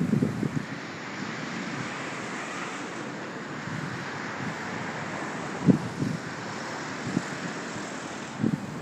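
Steady outdoor background noise, like distant traffic and wind, with a few short low thumps at the start, about six seconds in and near the end, typical of wind buffeting the microphone. No ibis call is heard.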